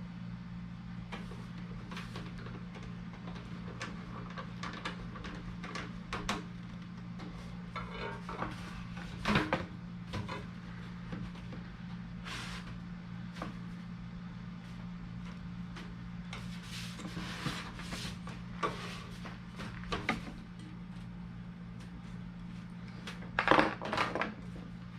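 Scattered clinks, knocks and clatters of tools or parts being handled over a steady low hum, with the loudest clatters about nine seconds in and near the end.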